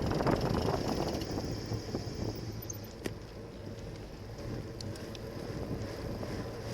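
Wind rushing over the microphone with road noise from a bicycle riding along, louder in the first second or two as a motor vehicle goes by. A single sharp click comes about three seconds in.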